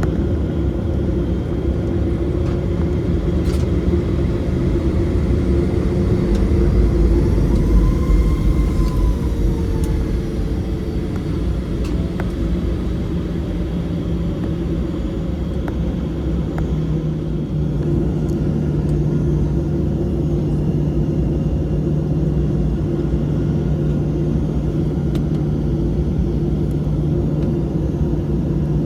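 Steady cabin noise of a Boeing 737-700 in flight: a constant rumble of engines and airflow with a low steady hum, which firms up slightly about 17 seconds in.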